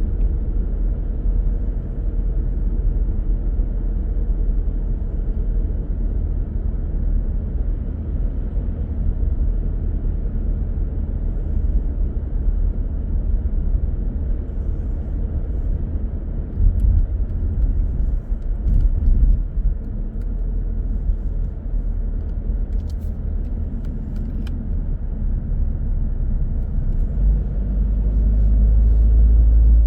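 Car on the move: a steady low rumble of engine and tyres on the road, with a couple of brief louder bumps around the middle and the rumble swelling toward the end.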